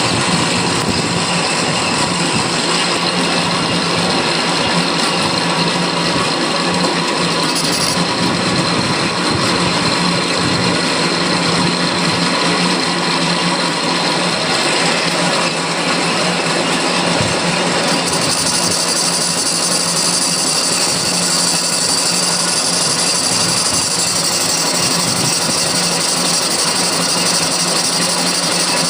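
Metal lathe running and turning the outer edge of a three-jaw chuck body, the cutting tool shaving steadily over the motor's steady hum. The cut takes on more hiss about two-thirds of the way in.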